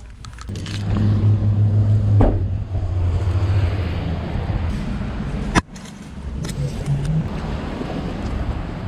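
Car driving: steady low road and engine rumble with a noisy hiss over it, breaking off abruptly about five and a half seconds in and then carrying on.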